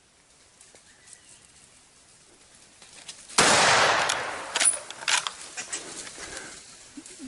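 A gunshot goes off suddenly about three and a half seconds in and rings out as it fades, followed by a few sharp cracks over the next two seconds.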